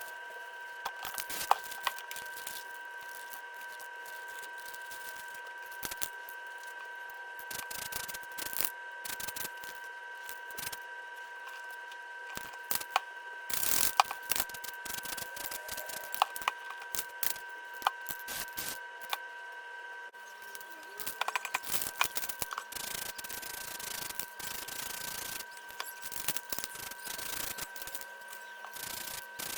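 Spray-painting handling sounds: scattered clicks, taps and scrapes with short hisses of spray paint, busier in the second half, over a steady high-pitched hum.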